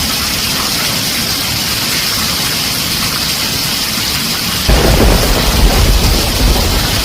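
Heavy rain falling on a tin roof as a steady hiss. About two-thirds of the way through, a deep thunder rumble comes in suddenly and keeps on.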